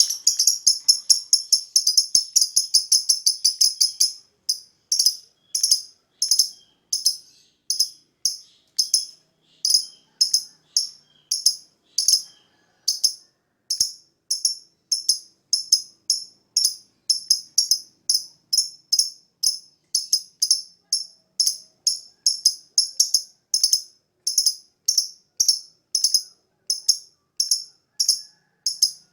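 Lovebird calling with shrill, sharp chirps: a fast, dense run for about the first four seconds, then single chirps repeated steadily about twice a second.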